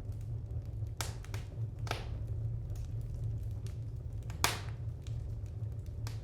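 Wood fire crackling in an open fireplace: a handful of sharp, irregular pops, the loudest about four seconds in, over a steady low rumble.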